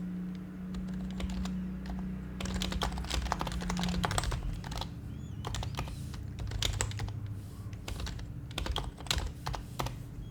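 Typing on an HHKB Professional HYBRID Type-S keyboard with Topre capacitive switches. The keys give soft, muted clacks in quick runs of keystrokes with short pauses. The typing starts a couple of seconds in.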